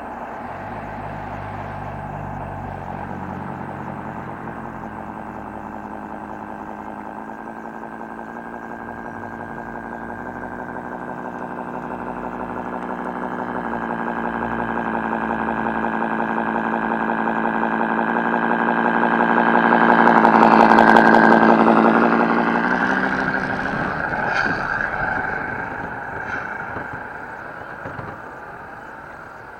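Simulated diesel semi-truck engine sound from an RC model truck's sound unit, a steady pulsing drone that grows louder to a peak about 21 seconds in and then fades away over a few seconds.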